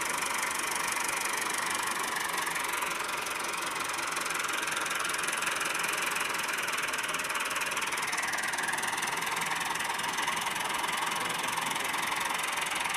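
Tractor diesel engine running steadily, with a dense clattering texture.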